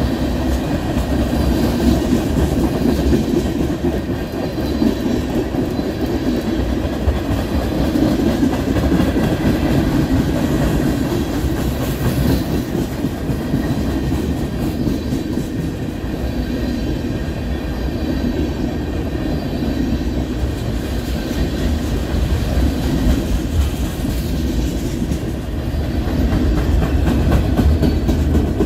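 Freight train of tank cars and boxcars rolling past, steel wheels running steadily on the rails in a continuous rumbling noise.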